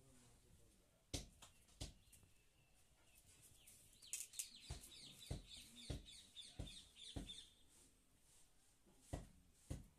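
Faint bird chattering in quick, repeated, high falling notes for a few seconds in the middle, among scattered soft knocks and bumps.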